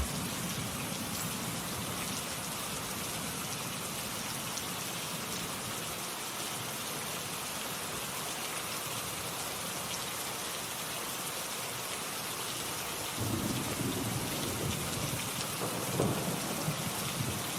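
Steady rain falling, with low rumbles of thunder swelling in about thirteen seconds in.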